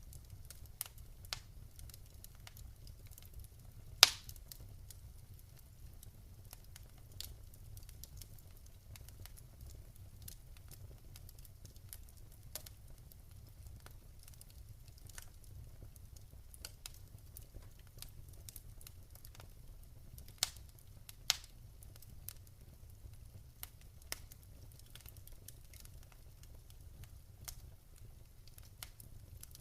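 Wood fire in a fireplace crackling, with scattered sharp pops. One loud pop comes about four seconds in, and two more come close together past the twenty-second mark, over a low steady rumble.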